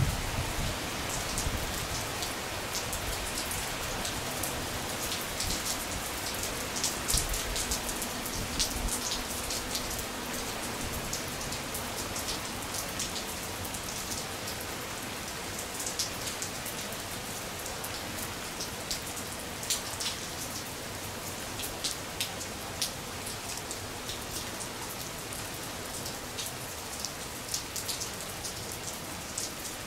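Steady rain: a continuous hiss with scattered, irregular light ticks of drops.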